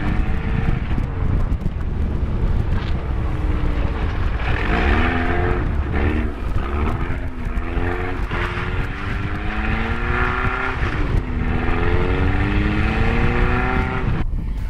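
Naturally aspirated engine of a 1991 Volvo 744 with automatic gearbox, revving up and down again and again as the car spins its rear wheels and slides on snow. Its pitch climbs and falls several times over a heavy low rumble of wind and tyres on the exterior microphone.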